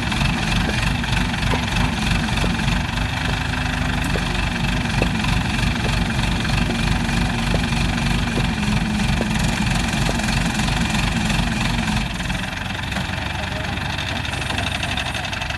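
A heavy engine idling steadily, its low rumble dropping away about twelve seconds in.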